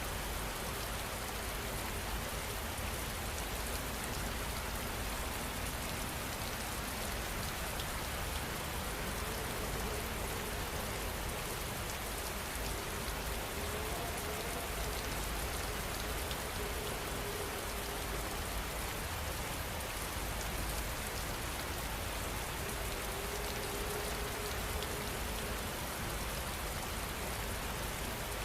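Steady heavy rain falling on a surface, with pattering drops.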